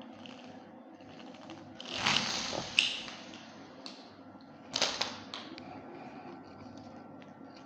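Short bursts of mechanical clicking and rustling, twice, about three seconds apart, over a steady low hum.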